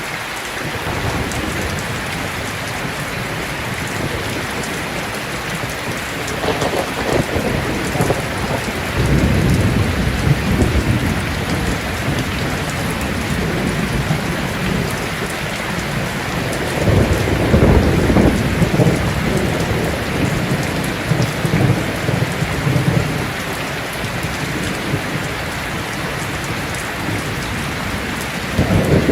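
Heavy rain falling steadily, with rolls of thunder rumbling low several times, the strongest about a third of the way in and just past the middle.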